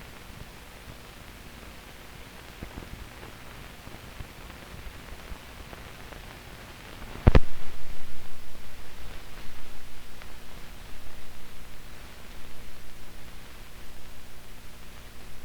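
Old film soundtrack with no programme sound: steady hiss and low hum, a sharp click about halfway through, then a louder low rumble that pulses unevenly a few times a second.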